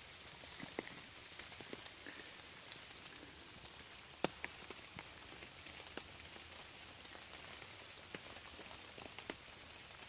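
Faint steady outdoor hiss with scattered light ticks and clicks.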